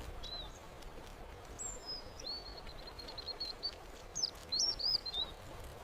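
Small songbird's thin, high chirps over a faint hiss: a short note, then a falling whistle, then a fast run of high notes, and a few more chirps near the end.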